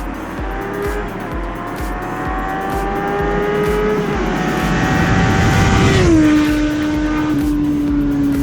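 Kawasaki Z750R's inline-four through an Akrapovic sport exhaust with the dB killer fitted, pulling with the pitch rising steadily. About six seconds in the pitch drops sharply, as on an upshift, then holds steady.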